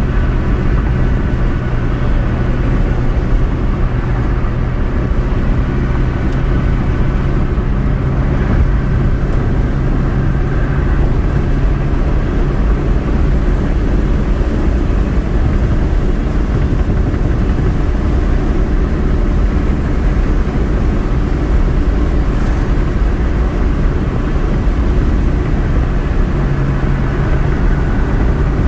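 Car engine and road noise from a vehicle being driven, a steady low rumble with an even engine hum.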